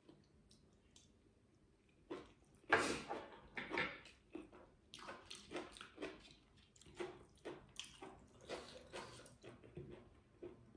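Close-miked chewing of a mouthful of stir-fried pork and bok choy in sambal with rice: wet, squishy mouth sounds at about two to three chews a second, with a loudest crunchy chew a few seconds in.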